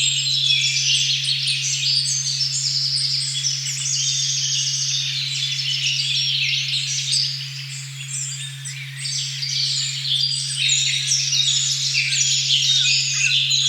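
A steady, pure low tone at 136.1 Hz drones without a break under a dense forest chorus of many birds singing, with overlapping high chirps, trills and warbles. The birdsong thins briefly about halfway through.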